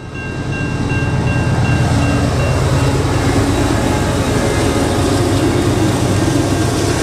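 Train running, a steady heavy rumble that swells in over the first second, with a faint steady high whine early on.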